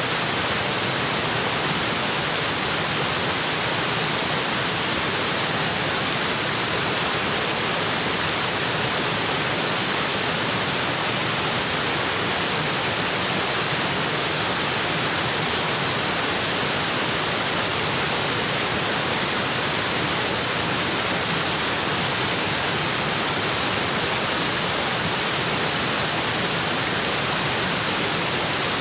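Waterfall: water falling steadily onto rocks, a constant, even rush with no breaks.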